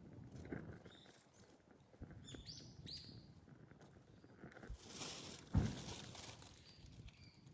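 Wood campfire crackling, with scattered small pops and one sharper, louder snap about five and a half seconds in.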